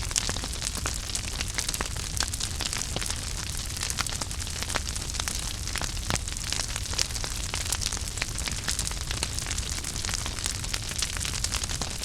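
Wood fire burning in a fireplace: a steady hiss and low rumble of the flames with frequent sharp crackles and pops scattered irregularly throughout.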